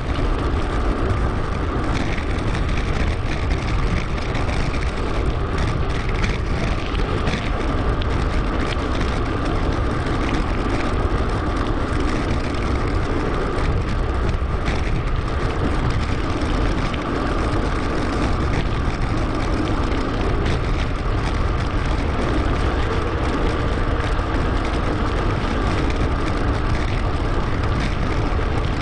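Steady wind rush and tyre rolling noise on a helmet- or bike-mounted action camera during a mountain-bike ride, with small scattered rattles.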